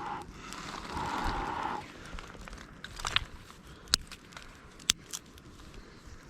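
Small wood campfire crackling, with a handful of sharp pops in the second half. A brief hiss comes about a second in.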